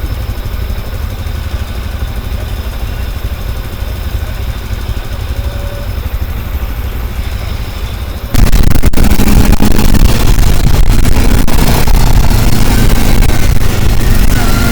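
Vehicle engine idling with a steady low rumble, then about eight seconds in it suddenly gets much louder as the vehicle pulls away and keeps running under load.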